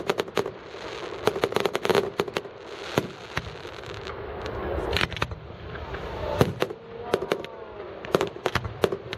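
Fireworks going off: many sharp bangs and crackles in quick, irregular succession, with a few short whistling glides about seven seconds in.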